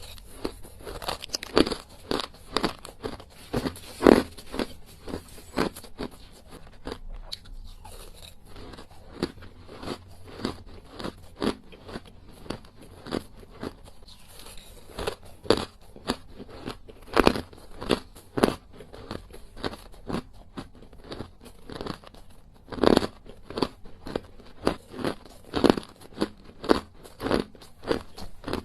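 Close-up biting and chewing of small, hard ice cubes: irregular sharp crunches and cracks, with several louder bites among steadier chewing crackle.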